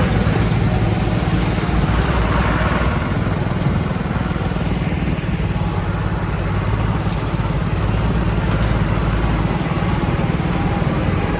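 Diesel engine of a JCB 3DX backhoe loader running steadily with a low, even rumble while it works loading mud.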